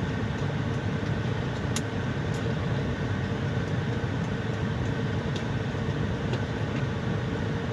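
Steady low drone of the truck's engine heard inside the cab, with a few faint light clicks scattered through it.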